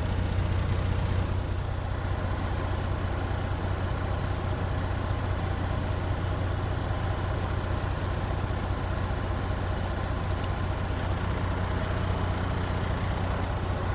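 Kenworth W900 semi truck's diesel engine idling steadily with a low, even hum.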